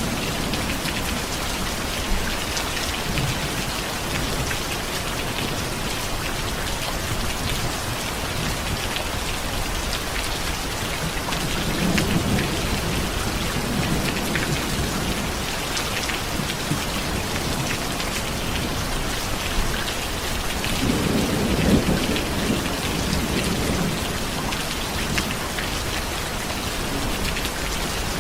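Steady rain falling, with low rolls of thunder, one around the middle and a stronger one about three-quarters through.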